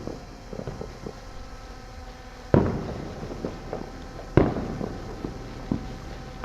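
Neighborhood fireworks going off: two loud bangs about two seconds apart, the first about two and a half seconds in, each trailing off, among smaller scattered pops and crackles.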